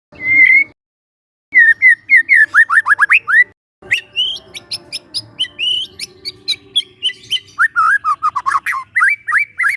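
Young wild white-rumped shama singing: a single whistle, then a fast run of downward-sliding whistles, and after a short break a long varied phrase of whistled notes mixed with sharp clicking notes.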